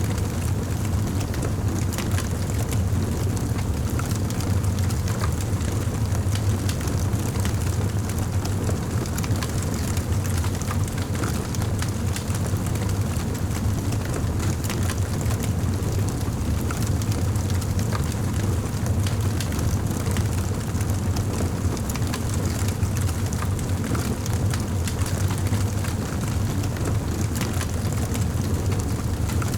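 Fireplace fire crackling: scattered sharp pops and snaps over a steady low rumble of the flames.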